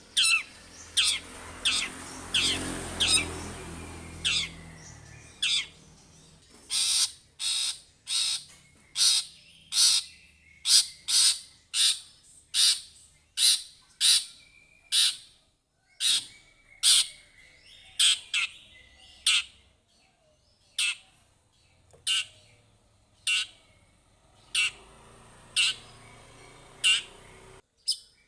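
Long-tailed shrike (cendet) calling over and over in a rapid series of short, harsh, scratchy notes, about one or two a second. A low rumble runs under the first few seconds.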